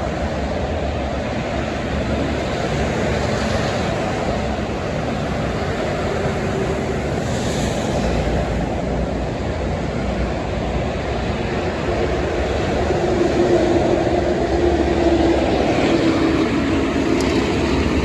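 Steady rush of heavy highway traffic with trucks passing. An engine drone comes up and grows a little louder from about two-thirds of the way in.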